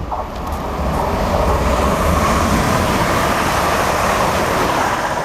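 Train passing through the station, a loud steady rumble and rush of wheels on rail that swells over the first second, holds, and dies away near the end.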